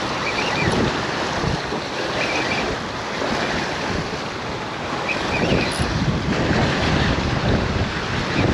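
Strong wind buffeting the microphone in uneven gusts, with choppy water washing against the shore.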